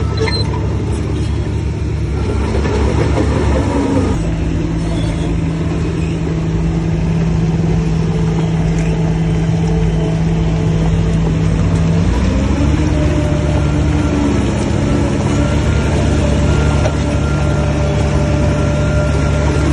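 Heavy diesel engine of earthmoving machinery running loud and steady under changing load. Its note shifts about four seconds in and again about twelve seconds in.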